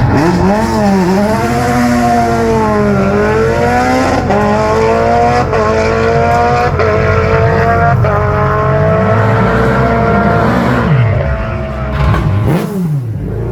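Race car engine accelerating hard up a hillclimb course, its note rising and stepping down through several quick upshifts, then dropping in pitch as the car passes and moves away.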